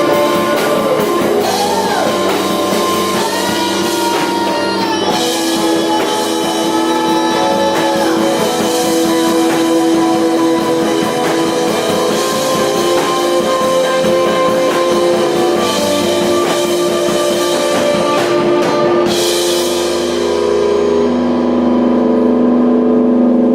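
Rock band playing an instrumental passage: electric guitar with sustained and bending notes over a drum kit. The drums drop out near the end, leaving ringing guitar chords.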